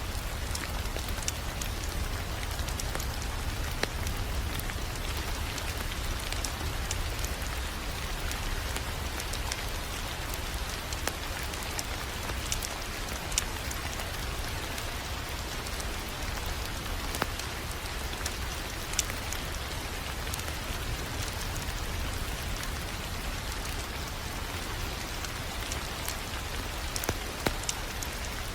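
Fireplace wood fire crackling, with scattered sharp pops over a steady hiss and a low rumble.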